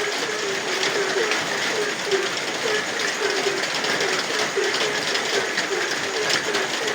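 Frogs croaking in a steady rhythmic chorus, about three short croaks a second, over the even hiss and patter of rain.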